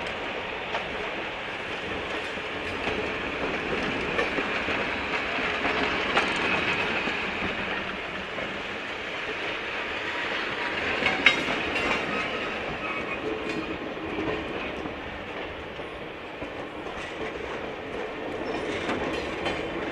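A train rolling along the rails: steady wheel-on-rail noise with scattered clicks over the rail joints and a sharp clank about eleven seconds in, and a faint wheel squeal at times.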